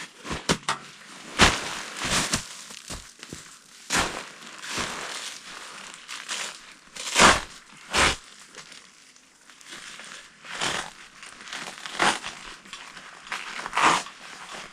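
Irregular knocks and clunks with crinkling rustle as camping gear, the stove and a folding bed, is handled and set in place inside a tent.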